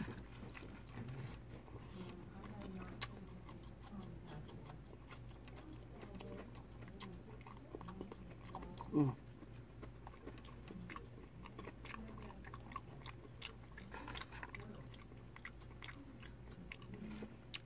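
A person chewing crispy fried fish, with small crunches and wet clicks of the mouth. About halfway through there is one short, louder pitched sound.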